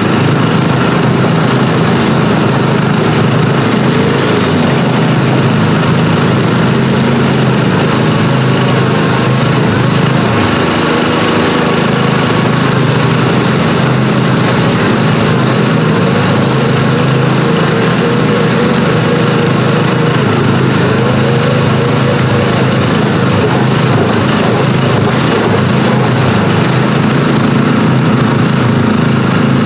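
An ATV and two riding lawn mowers run hard together under load, pulling against each other as their wheels dig into gravel. Their engines make a steady, loud drone, with pitches that waver a little as they strain.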